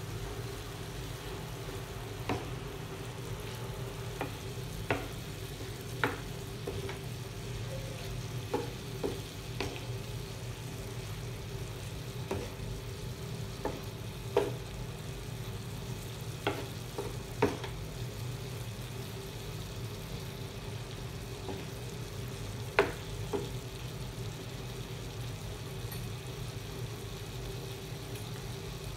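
Chicken pieces sizzling in oil on a tawa over a low flame as a spatula mixes in the turmeric powder. The spatula clicks and scrapes against the pan a dozen or so times, over a steady low hum.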